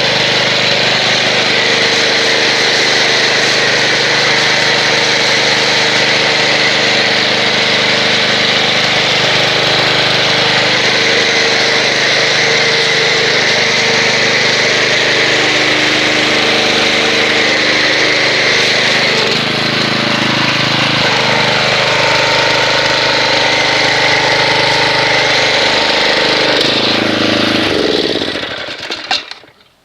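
Pressure washer running steadily with the dense hiss of an MTM foam cannon spraying. About two-thirds of the way through, its pitch begins to sink; near the end it winds down and cuts off.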